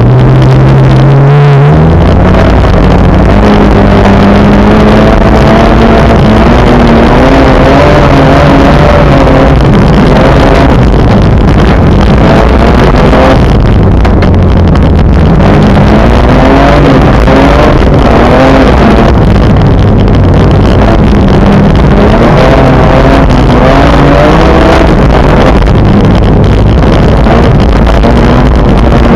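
Car engine heard from on board while driving, its pitch rising and falling with the throttle, with a short break about a second and a half in that fits a gear change.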